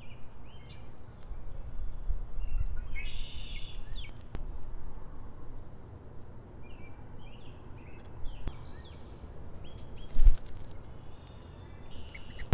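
Birds calling in short, scattered chirps and calls, in clusters, over a steady low wind-like rumble, with a brief thump about ten seconds in.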